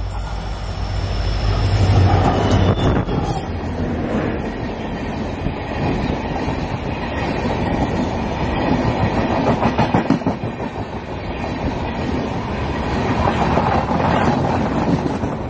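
Diesel-hauled express train passing close at speed: a deep locomotive engine drone that peaks about two seconds in, then the passenger coaches rush by with a steady rattle and clickety-clack of wheels over the rail joints.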